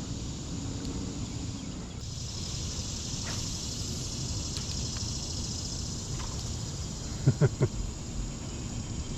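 Steady creek ambience: running water with a high insect hiss. About three quarters of the way through come three quick, loud pops close together.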